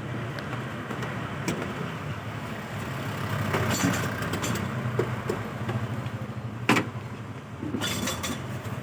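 Bajaj Pulsar RS200 motorcycle engine running with a steady low hum under road and wind noise, with a sharp click about seven seconds in.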